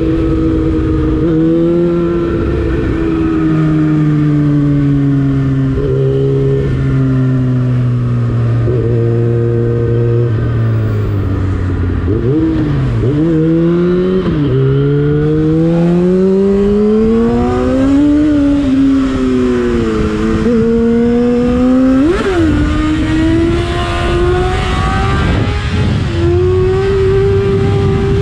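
Yamaha FZ6's inline-four engine through an Akrapovic exhaust while riding, its revs climbing and falling through gear changes, with a few quick sharp blips of the throttle. Steady wind rush underneath.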